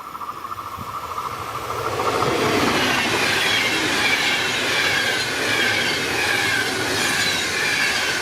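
Intercity passenger train passing on the rails, its rolling noise swelling about two seconds in and then staying loud and steady, with faint wheel squeal over the rush.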